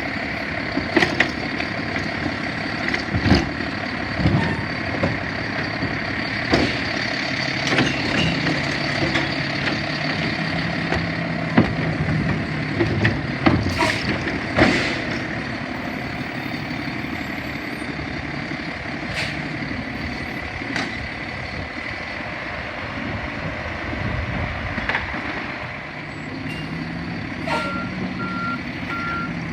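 Mack LEU garbage truck with a Labrie Automizer automated side-loader body running steadily, with repeated knocks and clatter through the first half while it works. A reverse beeper starts sounding near the end.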